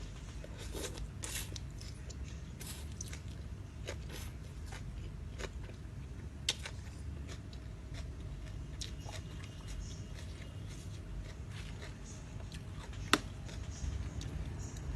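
Close-up eating: a person chewing and biting into a spicy rice-noodle salad with crispy squid, with many small scattered crunches and clicks. Two sharper clicks stand out, about halfway through and near the end.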